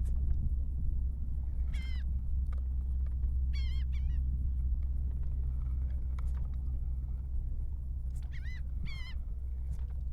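A bird giving short, sharp calls about five times, twice in quick pairs, over a steady low rumble.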